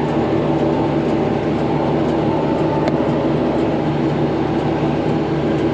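Tractor engine running steadily under load, pulling a New Holland Roll-Belt 450 round baler that is picking up and feeding a heavy windrow of hay. There is one faint click about three seconds in.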